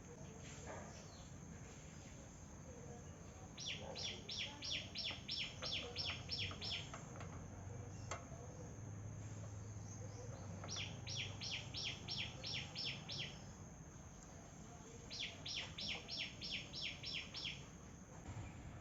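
A bird calling in three runs of about ten quick, evenly spaced high chirps, about three to four a second, with pauses between the runs. A few faint clicks sound in between.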